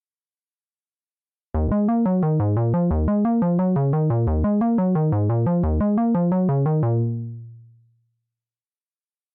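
GForce Minimonsta 2 software Minimoog emulation playing its 'Digital Logic' patch: a fast sequence of short synthesizer notes, starting about a second and a half in and ending with a fading release around eight seconds.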